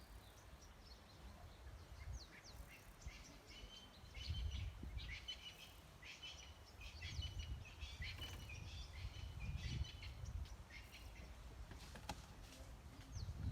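Wild birds chirping and trilling, many short overlapping calls, over a faint uneven low rumble.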